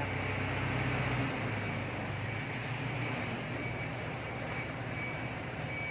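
Steady mechanical drone of an engine or motor running, its low hum easing off about a second in, with a faint steady high tone over it.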